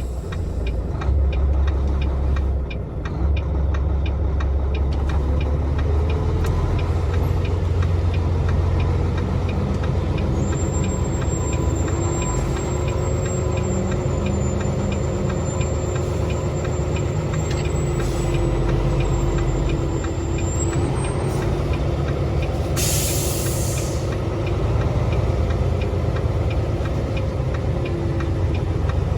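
Volvo semi truck's diesel engine idling steadily, with a short burst of air hiss about 23 seconds in.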